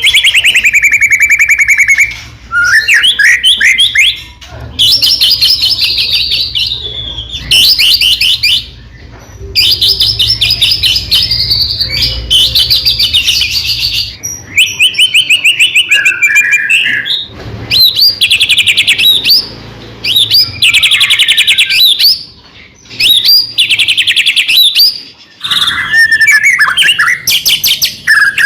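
White-rumped shama (murai batu) singing loudly in full song: a run of one- to two-second phrases of fast repeated notes and whistles, with short pauses between them.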